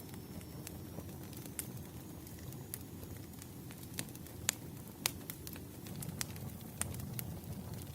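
Wood fire crackling: irregular sharp pops and snaps, a few louder than the rest near the middle, over a steady low background rumble.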